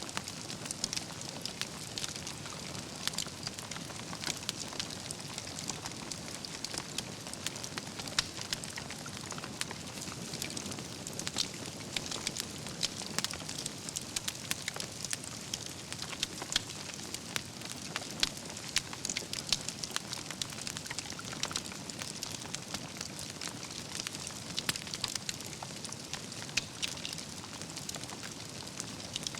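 Campfire of burning logs crackling steadily, with many sharp irregular pops and snaps of embers over a soft rushing hiss of flame.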